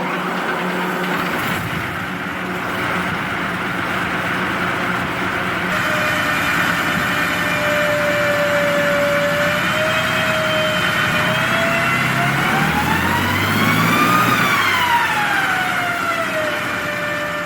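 Rolls-Royce Meteor V12 engine running, with a high whine that comes in about six seconds in, then rises and falls back in pitch as the engine is revved near the end.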